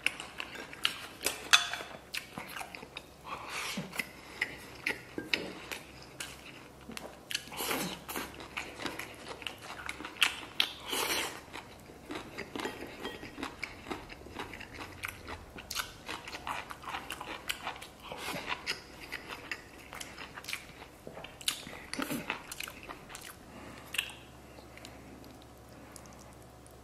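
Close-miked mukbang eating: a person biting and chewing a mouthful of rice, braised pork ribs and a raw garlic clove, in many short, irregular crunches and wet mouth clicks that thin out near the end.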